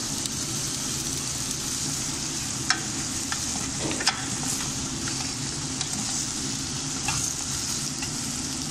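Meat, onion and tomato frying in a pot with tomato paste just added, sizzling steadily as it is stirred. A few sharp clicks of the stirring utensil against the pot.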